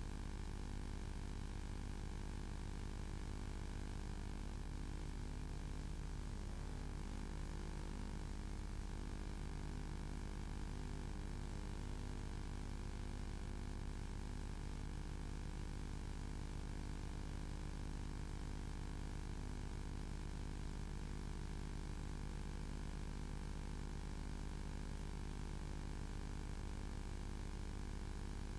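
Steady electrical hum and hiss with no other sound: line noise on an audio track that has no live sound.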